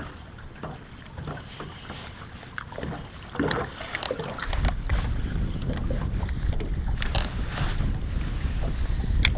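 Wind buffeting the microphone on a boat, with scattered small clicks and knocks; the low wind rumble comes in much stronger about halfway through.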